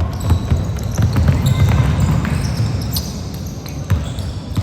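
A basketball bouncing on a gym court: a few sharp, separate bounces over the steady low din of a game in progress.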